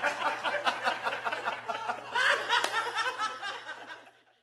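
People laughing and chuckling after a joke's punchline, dying away toward the end.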